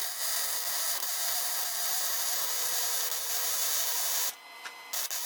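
MIG welding arc crackling and hissing steadily for about four seconds while a bead is laid on a steel mower-deck bracket. It stops briefly, then the arc strikes again near the end.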